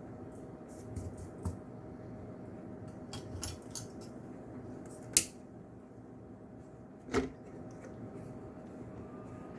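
Small metal tools being handled: a scattering of light clicks and clinks, with two sharper clinks about five and seven seconds in, the first the loudest, over a steady low hum.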